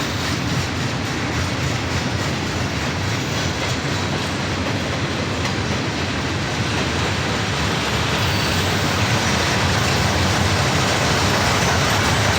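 Mixed freight train rolling past: a steady rumble and rattle of steel wheels on the rails, a little louder in the last few seconds.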